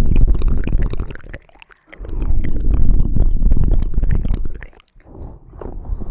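Close-microphone rubbing and scratching as in ASMR ear cleaning: loud, deep rumbling crackle with many small clicks, in two long passes broken by a short gap, then softer scratches near the end.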